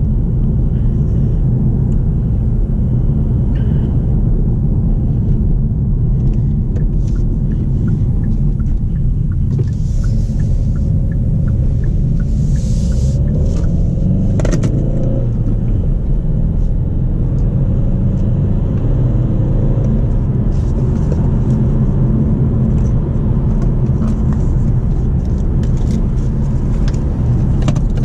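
Kia XCeed's 1.6 CRDi turbodiesel engine and road noise heard from inside the cabin while driving: a steady low rumble. About halfway through, the engine note rises and then drops back.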